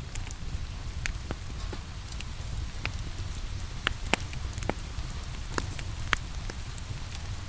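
Wood fire crackling in a fireplace: irregular sharp pops and ticks, a dozen or so, over a steady low rumble. Rain falls alongside it.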